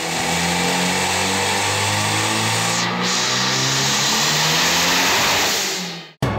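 Turbocharged VW Saveiro pickup running hard on a chassis dynamometer, engine held at fairly steady revs with its tyres spinning the rollers, with a brief dip in the hiss about three seconds in. It cuts off suddenly near the end.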